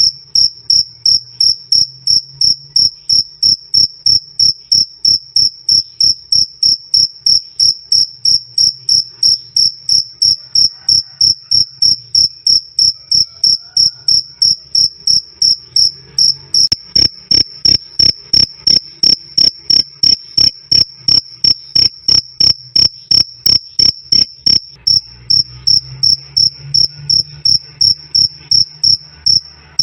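Male cricket (jangkrik) chirping loud and clear in a steady, even rhythm of about two and a half high-pitched chirps a second.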